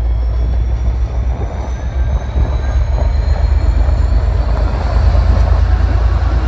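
N class diesel-electric locomotive running light engine: a steady, heavy low rumble with a faint high whine slowly rising in pitch.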